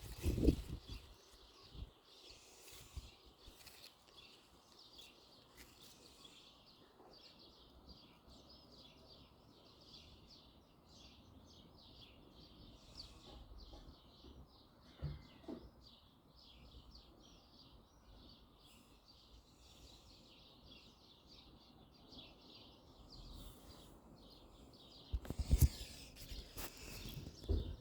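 Small songbirds chirping faintly in rapid, repeated short notes, with a few low thumps or rustles at the start and again near the end.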